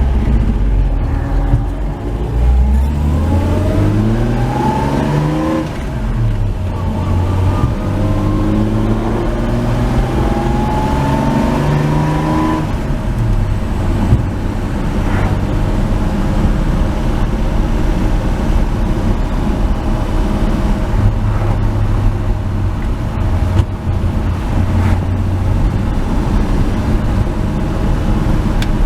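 1949 Chevy 3100 pickup's straight-six engine accelerating through the gears. The engine note climbs, drops at a shift about six seconds in, climbs again until about twelve seconds in, then holds steady at cruising speed.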